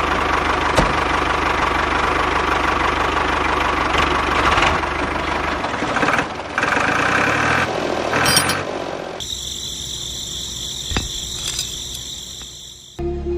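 Small engine of a homemade mini tractor running steadily, its sound shifting after about six seconds. About nine seconds in it cuts to a quieter sound with a thin high whine.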